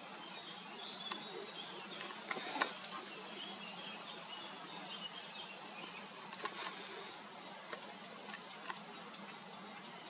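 Faint outdoor ambience with distant high bird twittering during the first half and a few short ticks scattered through.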